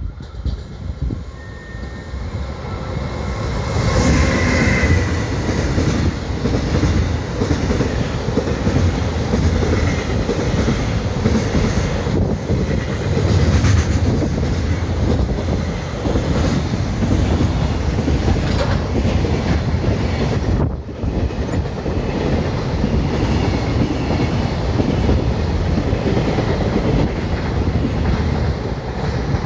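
JR Freight EF210 electric locomotive and its container train passing through a station without stopping: the sound swells as the locomotive goes by about four seconds in. After that comes a long, steady rumble and clatter of wheels on rail joints as the container wagons run past.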